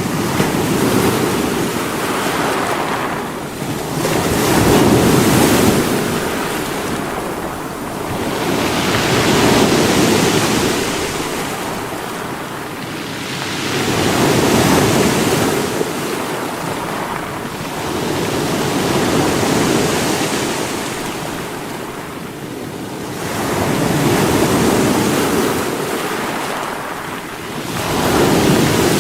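Sea waves breaking against rocks, each surge swelling and falling back about every four to five seconds.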